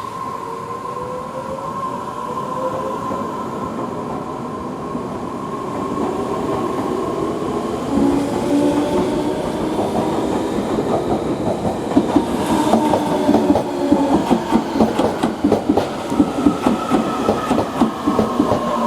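Electric commuter train pulling away and accelerating, its motor whine rising in pitch. From about two-thirds of the way in, the wheels clatter over rail joints and points, the clicks coming faster and louder as speed builds.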